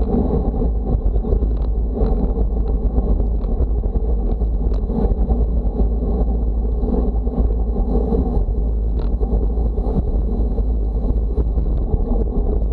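Wind buffeting the microphone: a steady, loud, low rumble that does not let up.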